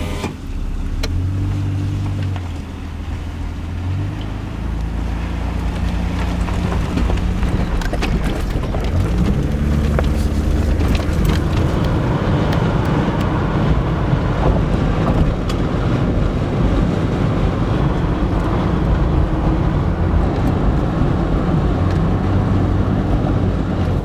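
A car driving, its engine note holding and then stepping to a new pitch several times as it changes speed, over steady road noise that grows louder after the first few seconds.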